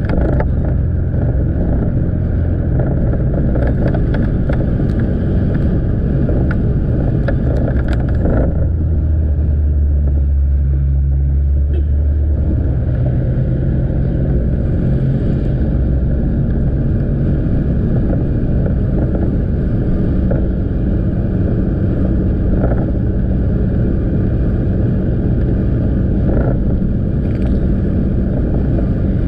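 Motorbike engine running steadily while riding, with wind and road noise on the helmet-mounted camera's microphone. A deeper, louder low rumble swells for a few seconds around the middle.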